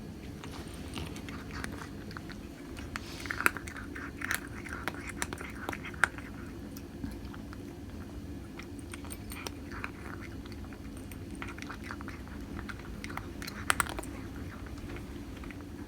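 A Scottish Fold cat biting and nibbling: soft clicks and short crunchy mouth noises come in a cluster a few seconds in and again near the end, over a steady low room hum.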